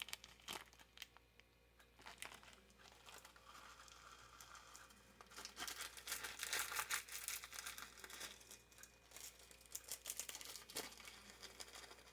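Faint crinkling and rustling of a plastic packet of chocolate sprinkles being handled and opened, with small crackles, louder through the middle.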